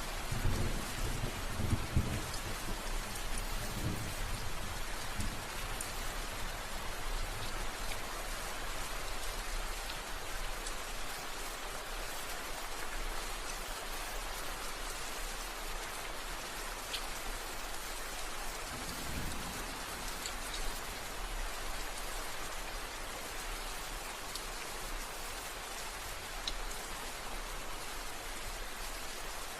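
Steady rain falling on a surface, an even hiss with scattered drop ticks. Low rumbles of distant thunder come in the first few seconds and again about twenty seconds in.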